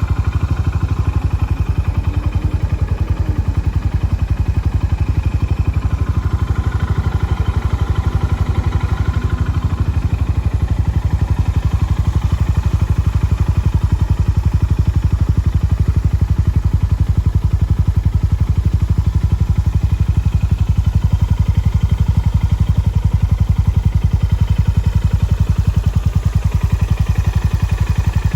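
2021 Honda GB350S's air-cooled single-cylinder engine idling steadily through an aftermarket Wyvern slip-on muffler, with an even run of low exhaust pulses.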